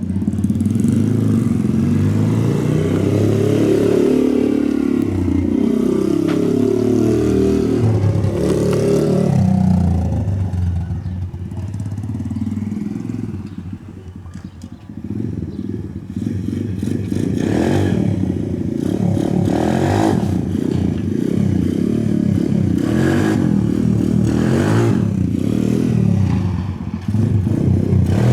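Bosuer PH5B 125cc pit bike's single-cylinder four-stroke engine running and being revved, its pitch rising and falling over the first ten seconds. It eases off about fourteen seconds in, then runs choppier with repeated short sharp blips.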